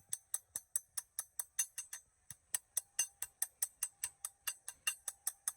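Rapid, evenly spaced sharp clicks, about five a second, with a short break about two seconds in.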